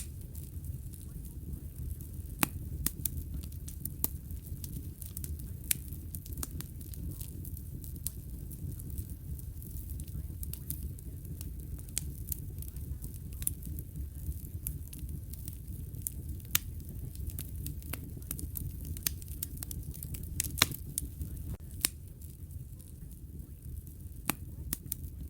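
Wood fire crackling in a fireplace: a steady low rumble of flame with irregular sharp pops and snaps, a few louder than the rest.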